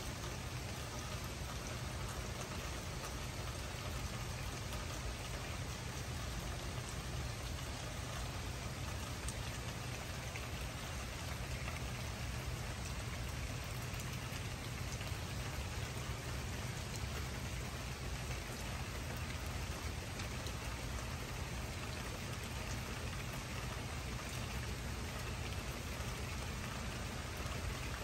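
Steady rain falling on wet ground and surfaces: a continuous, even hiss of drops with a low rumble underneath.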